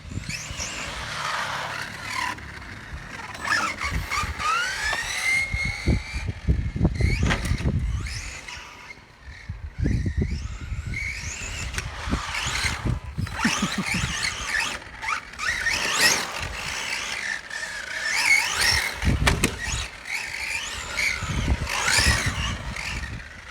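Electric motor of a CEN Ford Puma RC rally car whining up and down in pitch over and over as it accelerates and slows, with its tyres scrabbling on asphalt.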